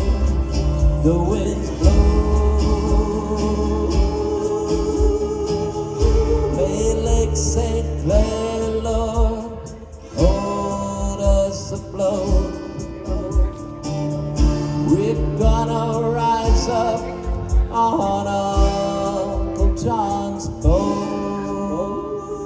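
Live band playing the closing section of a country-gospel song: a steady kick-drum beat under long, held vocal notes that slide into their pitch.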